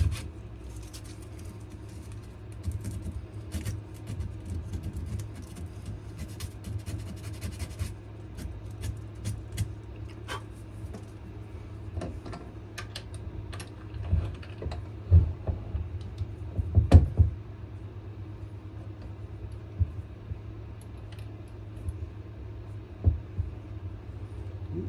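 Hand sanding of a wooden knife handle: a faint scratchy hiss of sandpaper, with scattered clicks and knocks as the knife and vise are handled, a louder cluster of knocks about halfway through. A steady low hum runs underneath.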